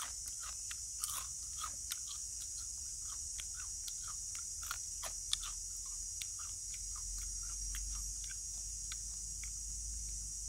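Chewing and crunching on small grilled rock crabs, shell and all: many short, crisp crunches, two or three a second.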